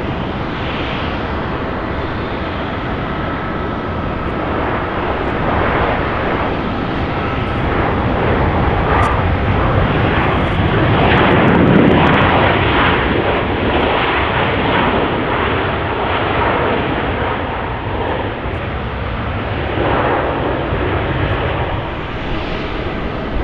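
Boeing 737 MAX 8 jet passing by, its CFM LEAP-1B engines making a steady jet noise that builds to a peak about halfway through and then eases off.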